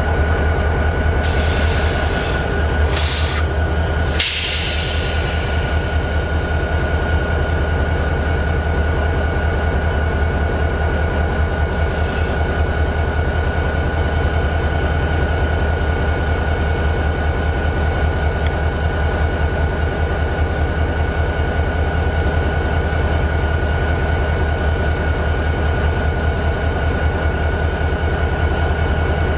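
EMD 16-645 turbocharged V16 diesel of a GP40-2 locomotive idling steadily: a deep, even rumble with a steady high whine over it. A few short hisses sound in the first five seconds.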